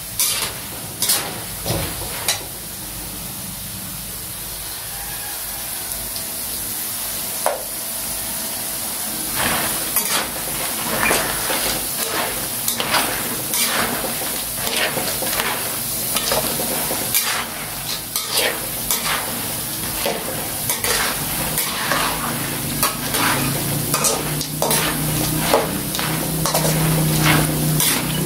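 Peanuts and sliced garlic deep-frying in oil in an aluminium wok, with a steady sizzle, while a metal spatula stirs them, scraping and clinking against the pan many times.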